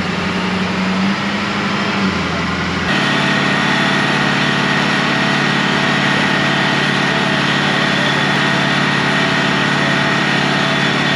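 Diesel truck engine running at a steady speed, with a steady high whine over it. The sound changes abruptly about three seconds in, then holds steady.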